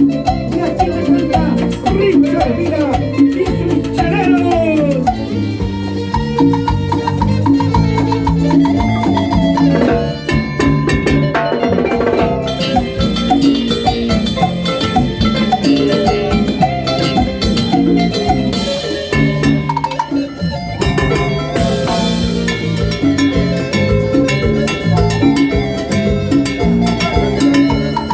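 Live band playing Latin dance music, with percussion keeping a steady beat under melodic instruments.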